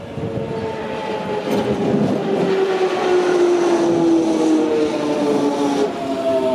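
A train running through the station, with a rumble of wheels on rail and a whine of several tones that falls slowly and steadily in pitch. It grows louder about two seconds in.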